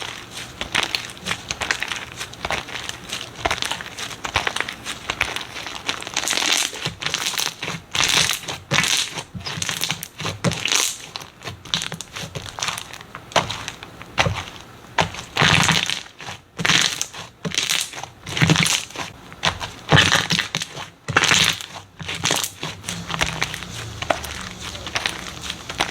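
Slime being squeezed and pressed by hand, giving irregular crunchy crackling, in louder bursts every second or so.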